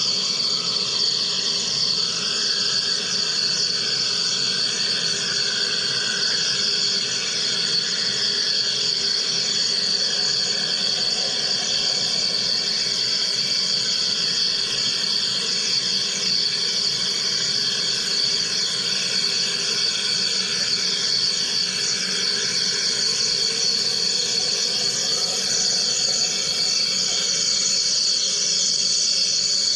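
Wire EDM machine cutting: a steady high-pitched buzz with a fine crackle from the spark discharges, unchanging throughout.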